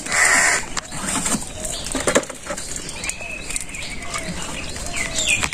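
Birds calling: one harsh caw at the start, then thin chirps, over scattered light taps and clicks.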